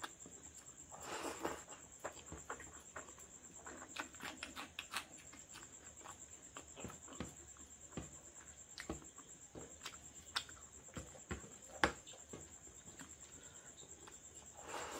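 A person eating rice by hand close to the microphone: wet chewing and lip-smacking clicks, with a few louder mouthfuls, over a steady high-pitched whine.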